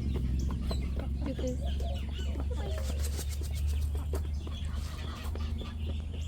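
Mother hens clucking and young chicks peeping as they feed, with scattered light clicks throughout.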